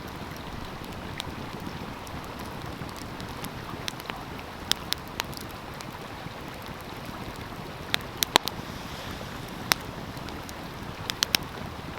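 Wood fire crackling with scattered sharp pops, several in quick succession about two-thirds of the way in and again near the end, over the steady rush of a flowing stream.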